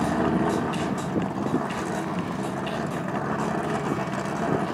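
A Toyota and a BMW idling side by side at a drag-strip start line, a steady low engine hum, as the BMW creeps forward to stage.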